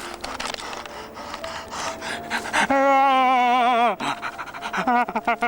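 A person panting hard, then a loud, wavering yell held for about a second, with short broken voice sounds near the end.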